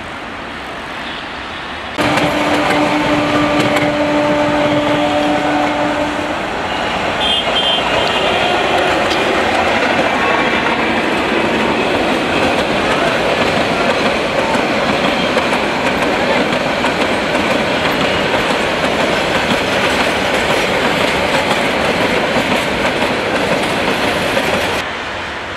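Bangladesh Railway metre-gauge local train passing close by. A long steady tone sounds for about four seconds, then comes the loud continuous rumble and rattle of its coaches running over the rails, which drops away shortly before the end.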